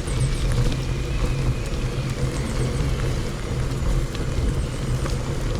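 Steady low rumble of wind and tyre noise on a mountain bike's onboard microphone while riding a dirt forest road, sped up to double speed.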